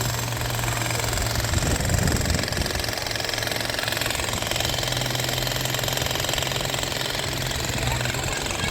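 Demolition machinery running steadily: an engine hum with a fast, even rattle of hammering, and a brief low rumble about two seconds in.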